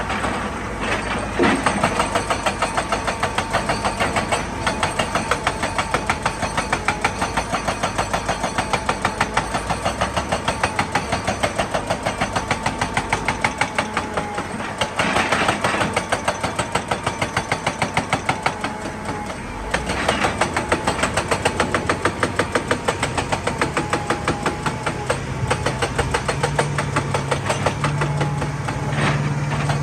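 Excavator's diesel engine running with a rapid, even pulsing of about four or five beats a second and a steady whine over it. A few louder noisy surges come and go along the way, and a low hum joins near the end.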